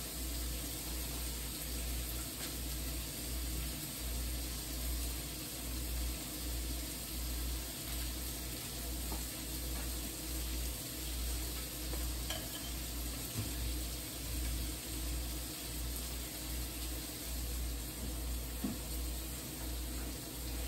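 Diced chicken sizzling steadily as it fries in a pan on the stovetop, with a few faint clicks.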